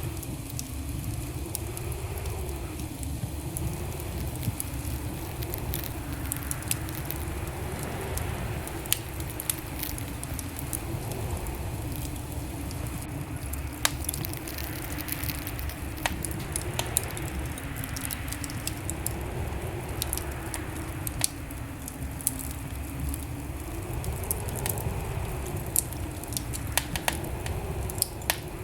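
Wood fire crackling in a fireplace: scattered sharp pops and snaps over a steady low rumble, with a faint hum wavering up and down in pitch.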